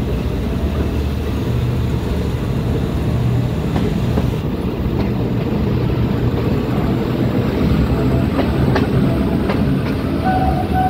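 Passenger train running along the track: a steady low rumble of wheels and carriages, with a few sharp clacks of wheels over rail joints in the middle. A faint steady tone comes in near the end.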